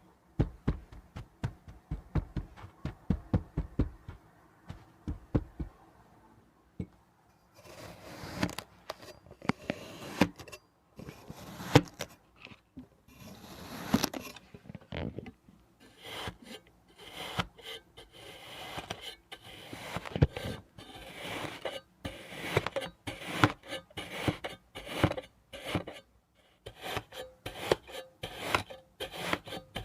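Kinetic sand being cut and scraped with a knife: soft low taps for the first few seconds, then, after a short pause, a long run of crisp, crunchy cuts and scrapes.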